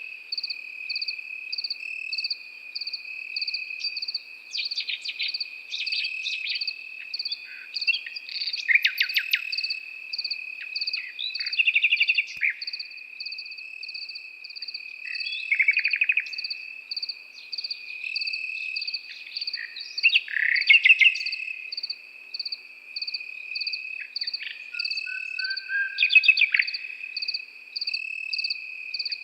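Nightingale singing in separate short phrases of rapid repeated notes and whistles, over a steady high trill and evenly pulsed chirping of crickets.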